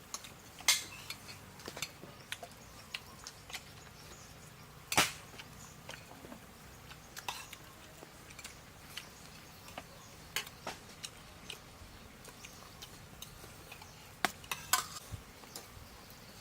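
Eating utensils clinking and knocking against plates and bowls, scattered light clicks with a few louder strikes.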